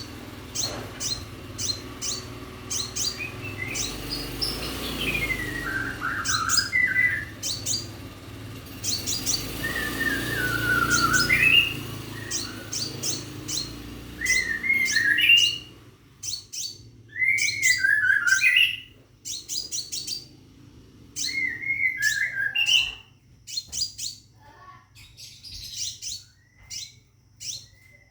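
Caged sepah raja (scarlet minivet) singing vigorously: a rapid run of short, sharp high chips mixed with repeated whistled phrases that slide down and then back up. It is calling for a female.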